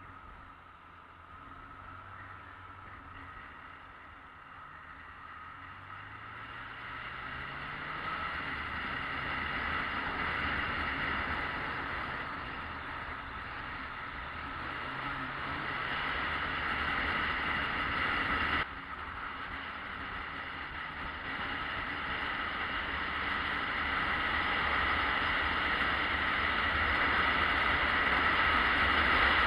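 Yamaha XJ600S Diversion's air-cooled inline-four engine running under way, with wind rush. The engine pitch rises twice as it accelerates, the sound grows louder overall, and there is a sudden drop in level a little past halfway.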